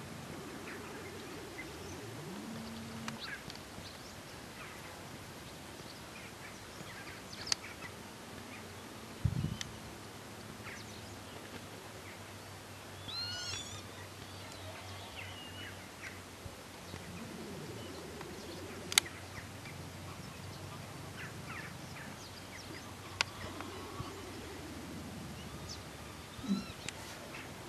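Quiet open-air ambience by water with scattered small bird calls, including a quick run of rising chirps about halfway through. A few sharp clicks and a low hum that swells and fades several times sit underneath.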